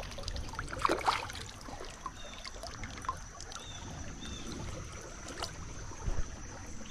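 Creek water trickling and running steadily, with a few small splashes about a second in.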